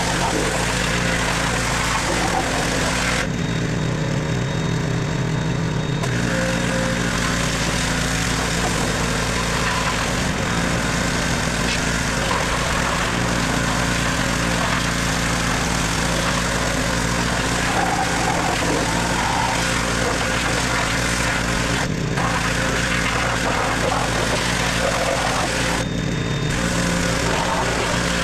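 Gas pressure washer's small engine running steadily, with spray hiss that cuts out briefly a few times as the trigger is let go.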